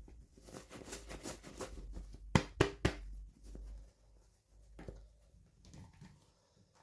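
Hands handling toy packaging: a run of rustling and small clicks, then three sharp clicks close together about two and a half seconds in, followed by quieter scattered handling noises.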